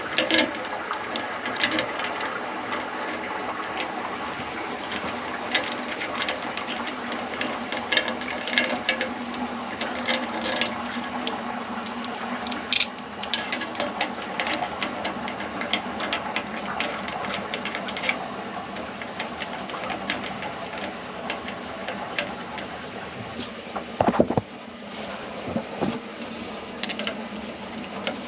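Household plumbing refilling after the main valve is reopened: a steady rush of water through the pipes with scattered clicks and knocks. The lines are left open to purge the air.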